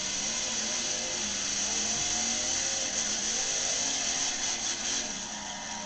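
Monster truck engine running and revving, its pitch rising and falling, under a loud wash of noise.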